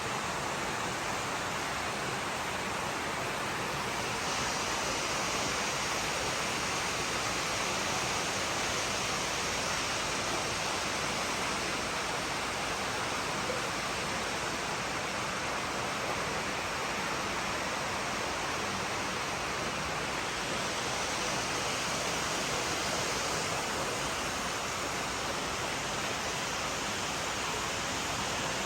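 Steady rush of running and splashing water from indoor koi ponds' filtration and aeration, turning hissier for a few seconds at a time.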